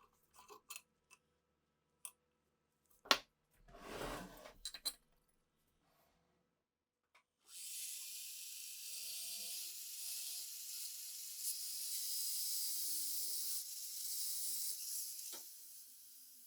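Small hard metal parts clicking and knocking as they are handled, one sharper knock about three seconds in and a short scrape just after. Then a steady hiss starts about halfway through and lasts about eight seconds.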